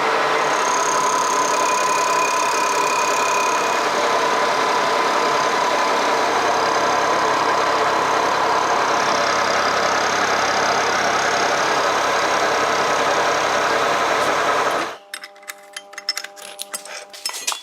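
Loud, steady machine noise with a hiss that cuts off suddenly near the end, followed by light metallic clinks.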